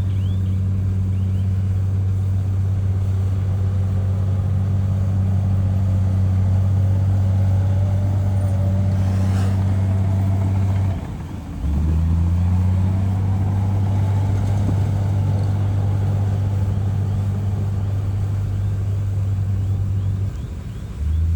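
Bulldozer's diesel engine running steadily under load, with two short drops in level, about eleven seconds in and again near the end.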